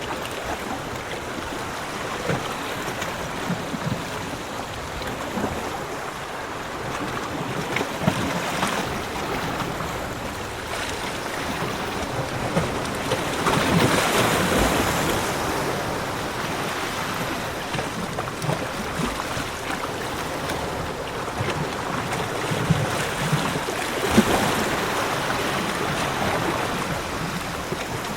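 Ocean surf washing onto a beach, a steady rush of water with waves swelling louder about halfway through and again near the end.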